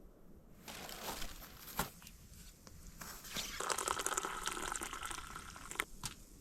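Water being poured into a container for about two seconds in the middle, among scattered crackles and rustles.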